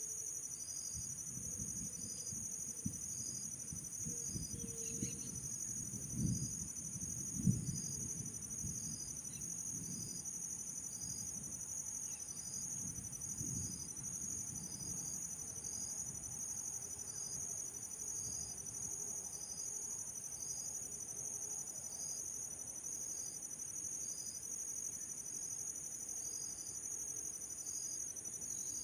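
Chorus of insects trilling steadily at a high pitch, with a shorter pulsing call repeating about once a second. A few low thumps sound about a quarter of the way in.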